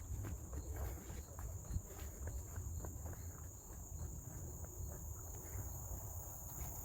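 Footsteps along a forest trail, irregular short crunches and taps, over a steady high-pitched drone of insects with a faint pulsing chirp. A low rumble runs underneath.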